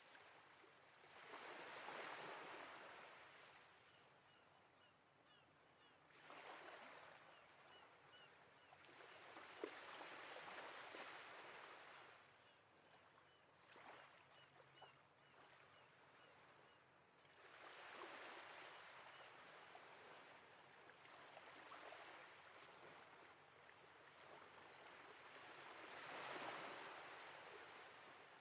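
Faint sea waves washing in and drawing back in slow swells every several seconds. A quiet, regularly repeated high chirp runs through the middle stretch.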